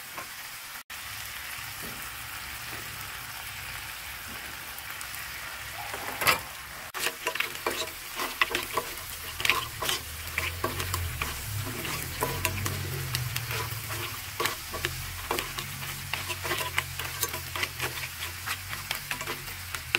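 Mussels and shrimp sizzling in butter and garlic in a cast iron pan. From about six seconds in, a wooden spoon stirs them, and the mussel shells click and clatter against each other and the pan over the steady sizzle.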